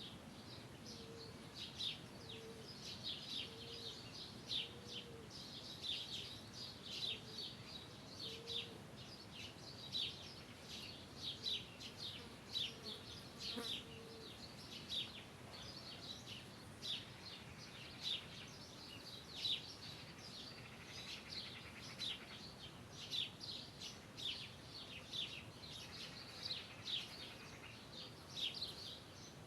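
Outdoor chorus of many short, high chirps going on steadily. Through the first half a low, short note repeats about once a second.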